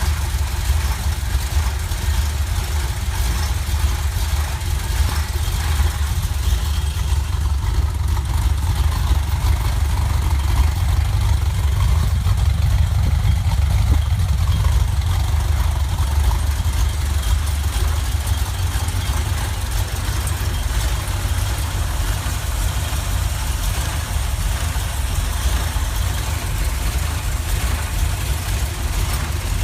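Chevy 350 small-block V8 idling steadily, with no revving.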